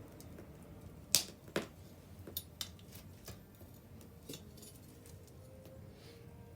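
Wood bonfire crackling: two sharp pops a little over a second in, then scattered smaller snaps over a low steady hiss.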